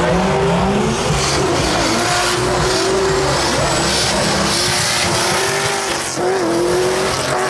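Drift car engines revving hard, the pitch rising and falling as the throttle is worked, with tyres squealing under them.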